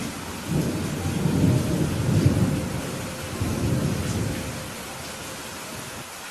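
Steady rain with a low roll of thunder that builds about half a second in, peaks around two seconds, rolls again near four seconds and fades out by about five seconds.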